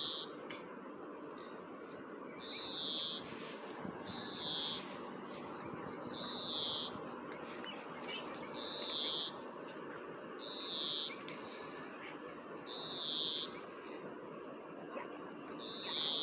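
A bird calling over and over, one short, high, slightly falling call about every two seconds, over a steady outdoor background hiss.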